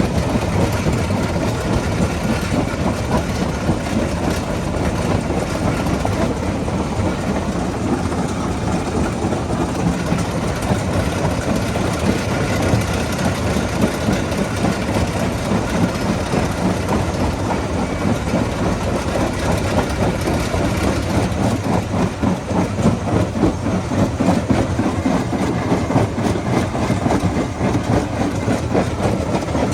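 Rock crusher running under load, stones clattering and grinding through it with a steady, heavy machine noise.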